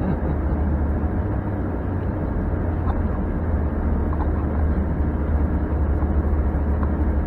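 Pickup truck engine and road noise heard from inside the cab while driving: a steady low rumble.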